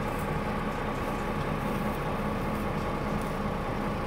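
John Deere diesel engine running steadily at a constant speed with its Flexxaire cooling fan, an even hum that does not change.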